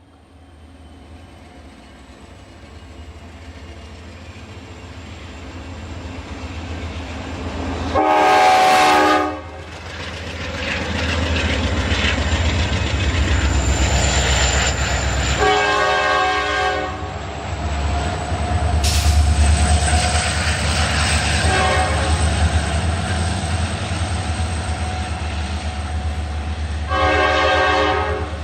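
Norfolk Southern diesel locomotive approaching, its engine rumble growing steadily louder. Its multi-tone air horn sounds long, long, short, long, the grade-crossing signal.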